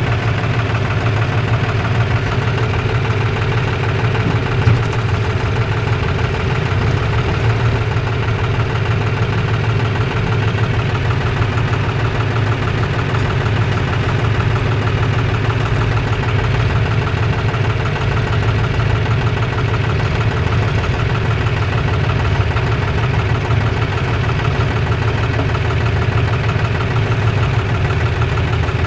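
Tractor's diesel engine running steadily with an even low throb.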